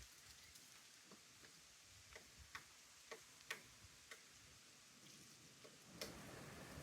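Faint, irregular sharp knocks of a pileated woodpecker pecking into wood, about ten single strikes spaced roughly half a second or more apart rather than a drumming roll.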